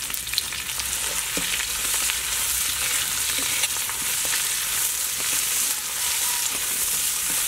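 Lemongrass, galangal, kaffir lime leaves, garlic and red chili sizzling steadily in hot oil in a steel wok, stirred with a metal spatula that gives occasional light scrapes and taps against the pan.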